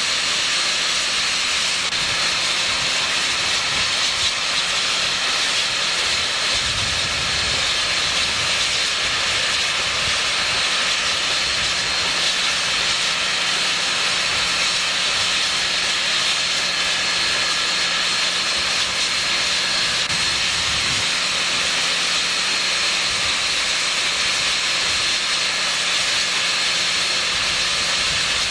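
Union Pacific 3985, a Challenger steam locomotive, hissing steadily as steam escapes while it stands, with a faint low hum beneath.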